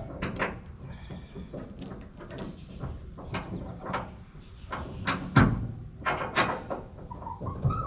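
A series of irregular knocks and clanks, a few of them ringing briefly, over a steady low rumble; the loudest knock comes about five and a half seconds in.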